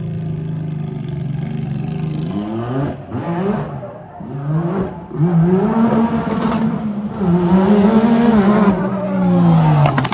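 Can-Am Maverick R's turbocharged three-cylinder engine idling, then blipped with a few quick revs and held up in two longer revs before dropping back to idle, heard through the exhaust.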